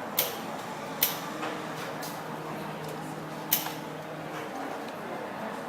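Four sharp clicks or knocks, spaced about a second apart, over a steady low background hum.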